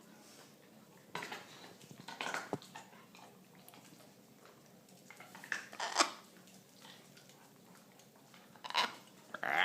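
Pet parrots making a handful of short, harsh noises, a second or more apart, while they feed on corn on the cob.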